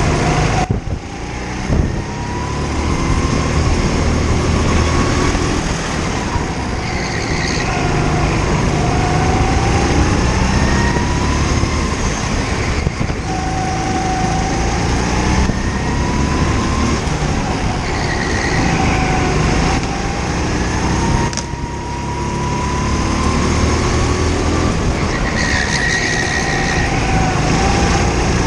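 Go-kart engine at full throttle, its pitch climbing along the straights and dropping off into the corners several times as the kart laps the track.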